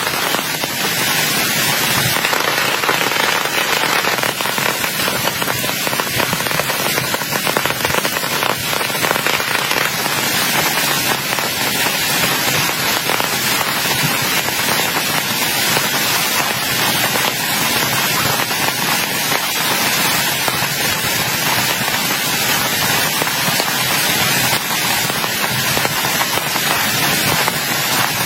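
Heavy rain falling steadily, a loud, dense patter of drops with no let-up.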